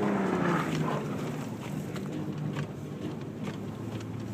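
Car engine running under throttle, its pitch dipping in the first second and then holding steady, with scattered clicks throughout.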